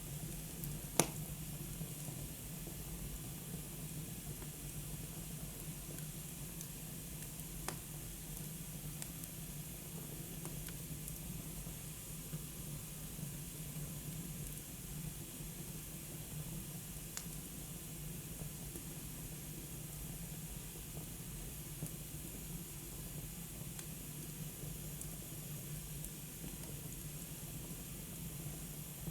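Wood fire burning in a fireplace: a steady soft hiss with a few sharp crackling pops, the loudest about a second in.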